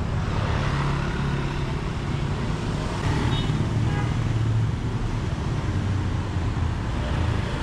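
Steady outdoor traffic noise with a low engine rumble.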